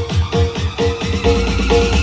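Loud electronic dance music with heavy bass blasting from a large carnival sound system ('sound horeg'). It has a quick repeating figure of short falling notes, about four a second, and a sustained deep bass comes in about halfway through.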